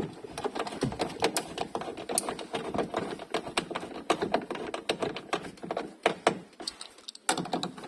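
Rapid, irregular clicking and knocking of small plastic and metal parts being handled and fitted on a car sunroof mechanism.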